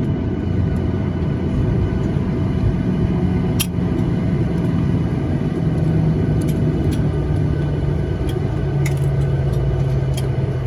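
Cabin noise inside a Boeing 737-800 on the ground after landing: a steady low rumble from its CFM56 jet engines. A low hum in it slowly falls in pitch, and a few faint clicks come through.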